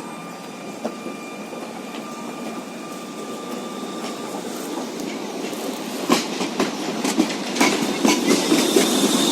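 A tram running on rails, its rumble slowly growing louder, with a faint steady high tone through the first half. From about six seconds in come irregular clacks and knocks of the wheels over the track.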